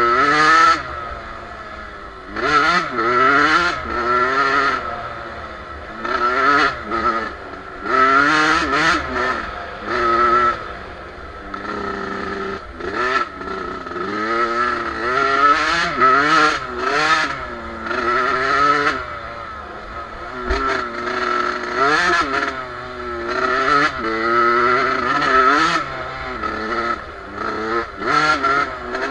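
Two-stroke Suzuki dirt bike engine revving up and falling back again and again while riding off-road, the pitch climbing and dropping every second or two through throttle and gear changes.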